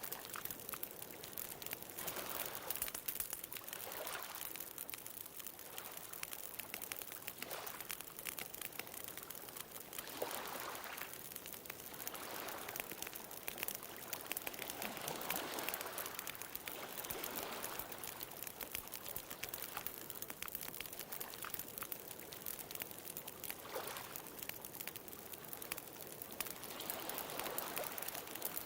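Bonfire crackling with many small snaps, over the wash of ocean waves that swell and fade every few seconds.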